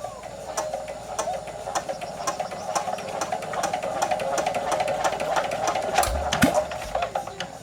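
A small motor-driven tool running steadily, with many sharp clicks and a low thump about six seconds in.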